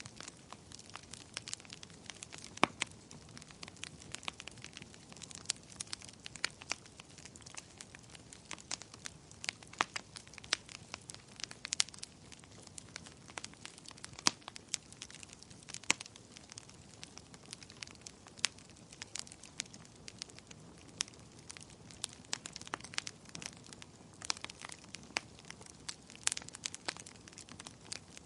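Wood fire in a fireplace crackling, with irregular sharp pops and snaps, several a second, over a low steady hiss.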